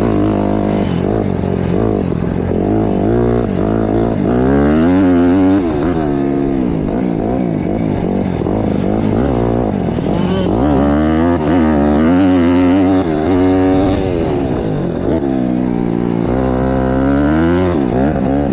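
Honda CRF150R four-stroke single-cylinder dirt bike engine being ridden hard, revving up and falling back over and over as the rider works the throttle and shifts gears.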